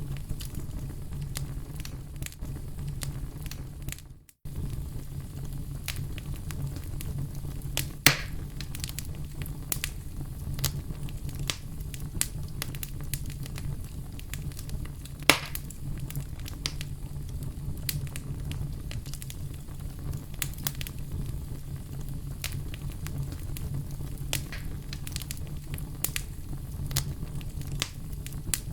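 Wood fire crackling: a steady low rumble of burning with frequent small sharp crackles and two louder pops, one about eight seconds in and one about halfway through. The sound cuts out for a moment about four seconds in.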